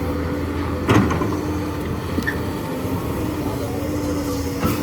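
Hydraulic excavator's diesel engine running steadily under load while digging limestone, with a sharp knock about a second in and another near the end.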